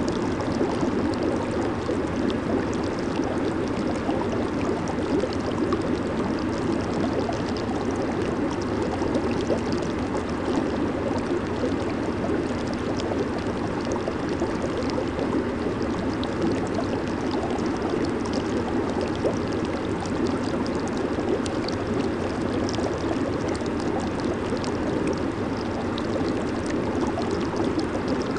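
Jacuzzi (hot tub) running: steady churning and bubbling of water from the jets, an even continuous rush with no breaks.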